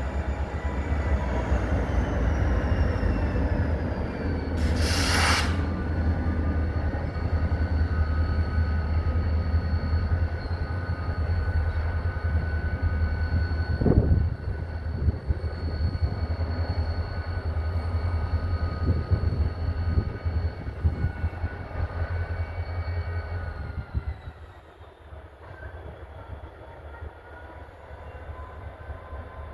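EMD SD40-2 diesel locomotives running under load as they shove a cut of freight cars, a steady low engine rumble. There is a short hiss about five seconds in and a single knock about halfway through. About 24 seconds in the engine note falls and the sound drops off as they throttle down.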